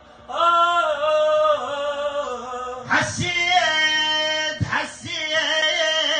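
A man sings a sad Iraqi mawwal solo, holding long, wavering notes with two brief breaks.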